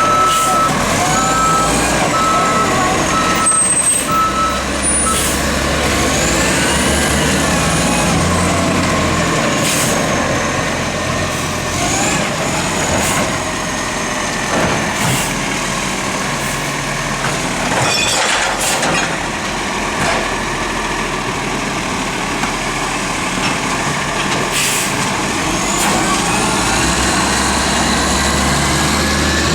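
Rubbish truck's diesel engine running steadily during a bin pickup, with a short run of even beeps in the first five seconds, a whine that rises and falls twice, and several sudden sharp hisses or knocks.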